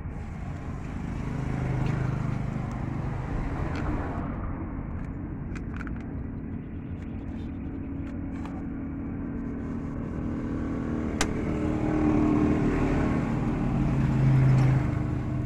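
A vehicle engine running steadily, swelling louder twice, with a sharp click about eleven seconds in.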